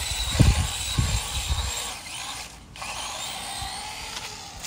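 Remote-controlled car's electric motor whining as the car is driven in drifts, its pitch rising and falling with the throttle. The whine cuts out briefly just past the middle and then picks up again, with low rumbling thumps during the first couple of seconds.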